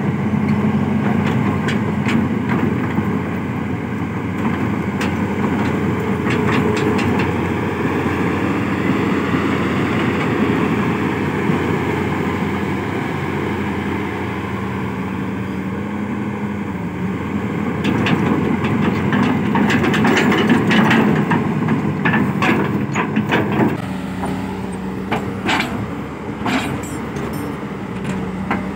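Hitachi Zaxis 200 excavator's diesel engine running steadily after its throttle cable fault was fixed. Sharp metallic clanks and rattles come through repeatedly in the second half.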